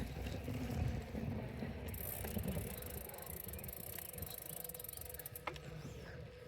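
Riding a bicycle: low rumble of the tyres and wind on the microphone, growing quieter, with the rear hub's freewheel ticking rapidly for a couple of seconds in the middle while coasting and a single click near the end.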